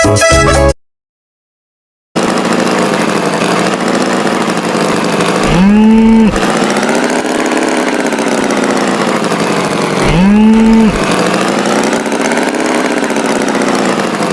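Steady tractor-like engine running, with a cow mooing twice over it, each moo short and rising at the start, about four seconds apart. A brief burst of music ends just before a second-long silence at the start.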